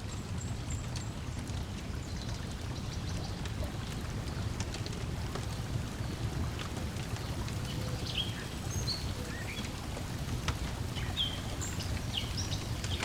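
Lakeside nature ambience: a steady low wash of water lapping and breeze, with scattered short bird chirps that come more often in the second half.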